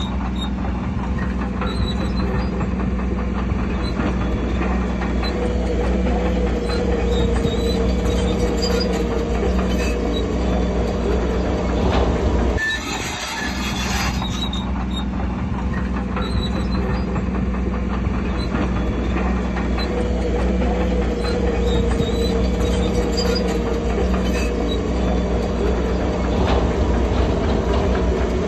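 Crawler bulldozer at work: its diesel engine runs steadily under load while the steel tracks clank, with a wavering whine over the engine note. The sound dips briefly about halfway through, then resumes.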